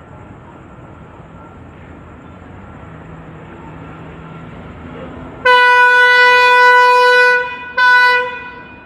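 CSR diesel-electric locomotive's horn sounding one long blast and then a short one, over the low rumble of the approaching train, which grows slowly louder.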